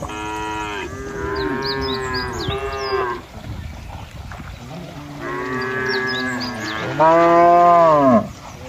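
Cattle mooing: two long moos a couple of seconds apart, the second louder near its end and falling in pitch as it stops.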